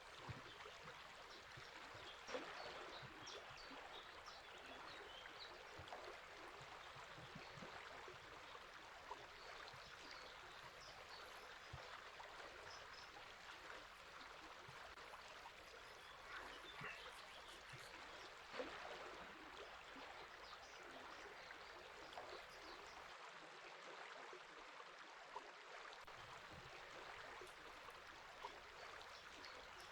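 A river flowing steadily, a quiet even rush of water, with short high bird chirps scattered through it.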